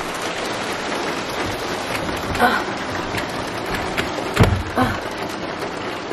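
Heavy rain pattering steadily on a roof window and roof, heard through the open window. A few knocks break in, the loudest about four and a half seconds in.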